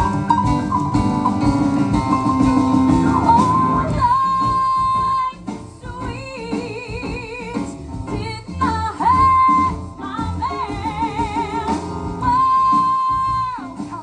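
Music from a stage song, with a woman singing long held notes that waver in pitch over the band's accompaniment.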